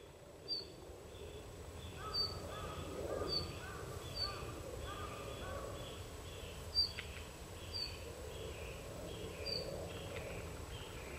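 Red-flanked bluetail giving short, sharp, high call notes, about seven of them, spaced a second or more apart.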